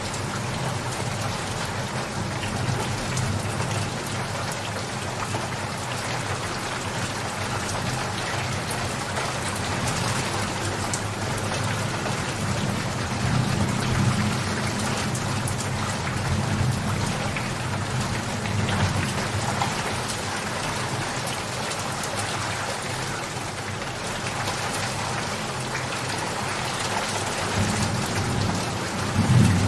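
Steady, dense rainfall pattering on surfaces, with distant thunder rumbling low in the middle and a louder roll of thunder beginning right at the end.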